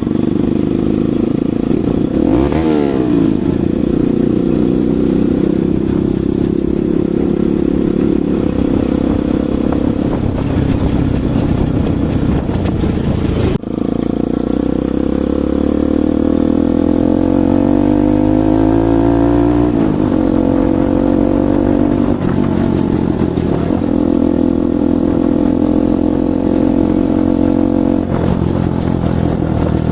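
Bajaj Pulsar NS200's single-cylinder engine running through an aftermarket Akrapovic exhaust, revving: a quick blip a couple of seconds in, then a slow climb in pitch over about five seconds that drops away sharply, with a short break near the middle.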